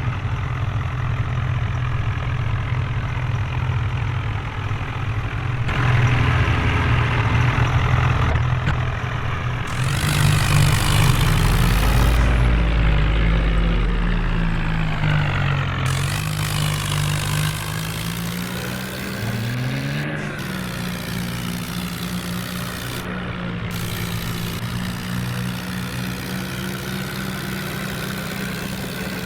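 Diesel tractor engines running hard, their pitch rising and falling with the revs through the middle, with a deep low rumble around halfway, then settling to a steadier run near the end.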